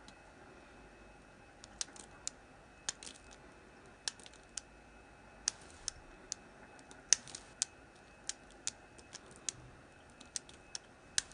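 Knife cutting into hard, dry Palmolive bar soap: a run of sharp, crisp snaps and clicks at irregular intervals, starting about one and a half seconds in.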